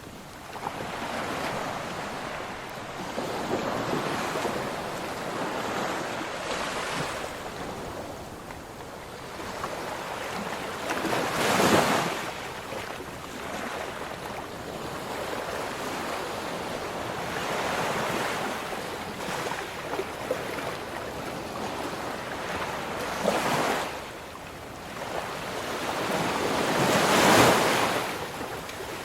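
Ocean waves breaking and washing on a shore in a continuous surf rush, with the biggest breakers swelling up about twelve seconds in and again near the end.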